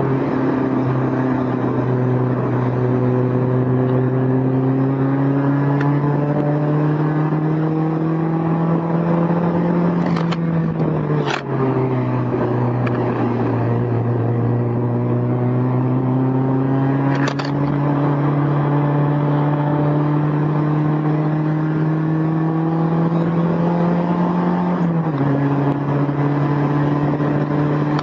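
Honda S2000's four-cylinder engine pulling through the gears with the top down, heard from the passenger seat: its pitch climbs slowly, then drops sharply at upshifts about eleven seconds in and again near twenty-five seconds. A few sharp clicks come from the loose recorder clattering on the seat.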